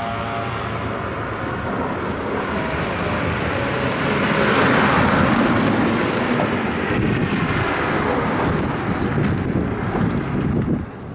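Hillclimb race car passing at speed, its engine and tyre noise building to a peak about five seconds in and then fading away.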